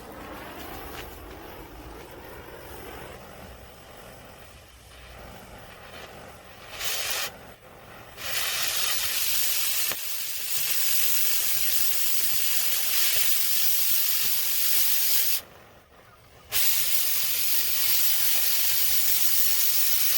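Loud, even hissing that starts about seven seconds in after a quieter low rumble, cutting out briefly twice.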